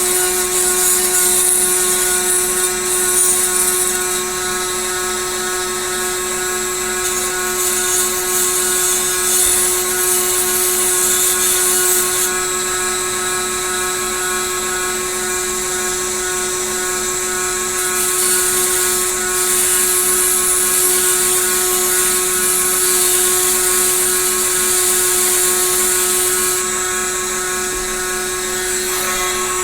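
Small handheld rotary tool running steadily at one high, even pitch while grinding down a plastic model kit part, the grinding hiss coming and going as the bit touches the plastic.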